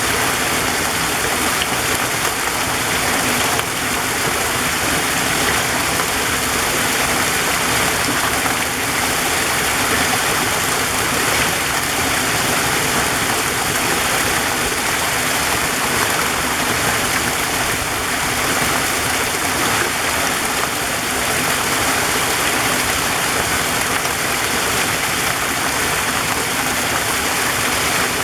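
Waterfall in a forest, water rushing and splashing in a steady, even roar.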